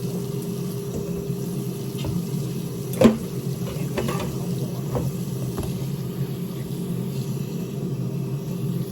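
Dishes being washed at a kitchen sink: a few clinks and clatters of dishes, the loudest about three seconds in, over a steady low hum.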